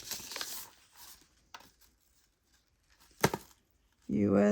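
Costume jewelry being handled: a short rustle at the start, a few small clicks, then one sharp click about three seconds in.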